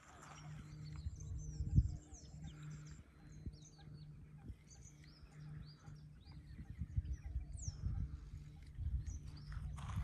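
Small birds chirping and twittering in many short calls. Underneath are gusts of low rumble and a steady low hum that breaks off and resumes.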